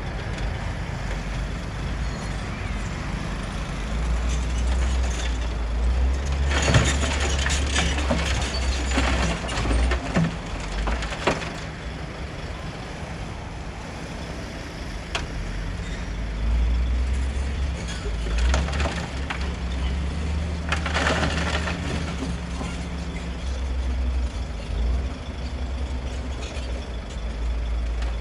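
Bulldozer's diesel engine working under load, a deep rumble that swells and eases. Two short bursts of hiss-like noise come about seven seconds in and again near twenty-one seconds.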